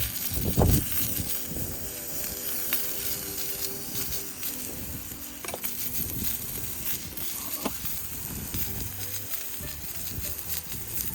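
Steady sizzling and crackling over a wood fire, with scattered sharp pops and a loud low thump under a second in.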